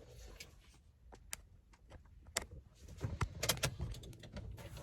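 Light clicks and knocks of things being handled inside a car, scattered at first and coming thicker in the last two seconds.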